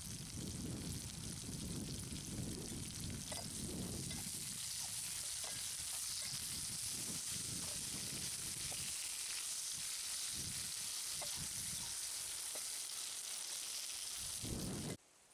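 Sliced tindora, tomatoes, green chillies and onion sizzling in oil in a kadai, with a spoon repeatedly scraping and stirring them through the pan. The sound cuts off abruptly just before the end.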